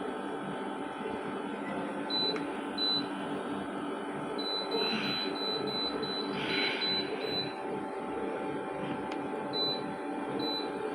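Air conditioner beeping: short high electronic beeps, a few at first and then a quick run of them in the middle, over a steady electrical hum.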